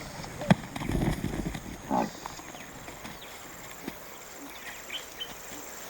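African buffalo herd calling in low grunts, the loudest about two seconds in, with a sharp knock about half a second in; faint bird chirps follow.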